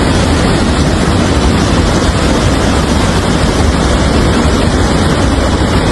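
Loud, steady rush of floodwater with a deep rumble underneath.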